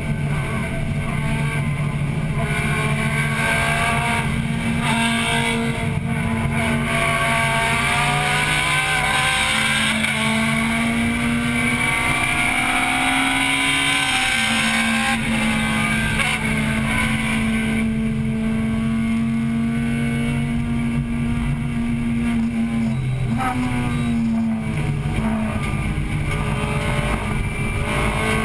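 1998 Acura Integra Type-R's 1.8-litre VTEC four-cylinder engine heard from inside the cabin, running hard at high revs under racing load. Its pitch holds high and climbs slowly, then drops sharply about halfway through and again about two-thirds through before climbing again.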